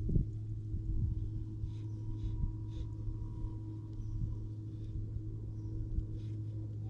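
A steady low hum, with gusts of wind buffeting the microphone in irregular low rumbles, the strongest just after the start and about a second in.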